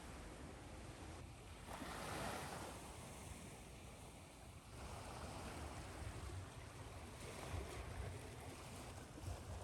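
Ocean waves washing in over a steady hiss of white noise. One wave surges about two seconds in, and another about five seconds in.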